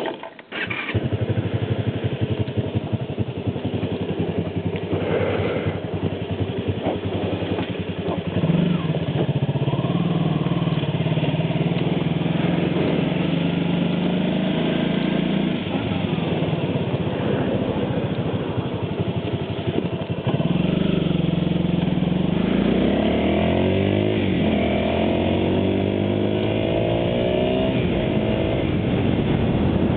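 Honda VT250 V-twin motorcycle engine running while being ridden, its pitch climbing and falling as it accelerates and changes gear, with repeated rising sweeps past the two-thirds mark.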